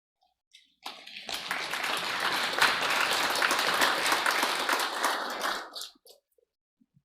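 Audience applauding, starting about a second in and lasting about five seconds, then dying away with a few last claps.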